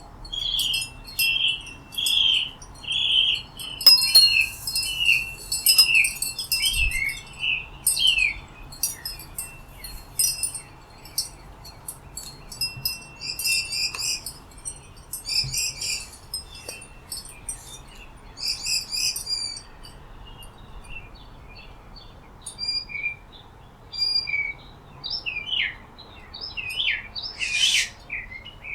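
Wild songbirds calling and singing: a repeated series of short whistled notes, one to two a second, for the first eight seconds or so, then scattered high chirps and quick trills.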